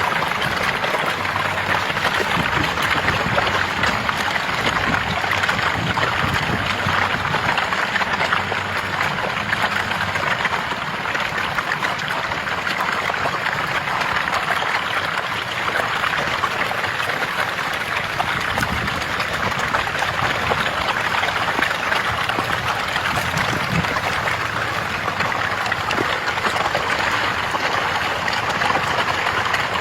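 Steady churning and splashing of water from a dense mass of fish feeding at the surface.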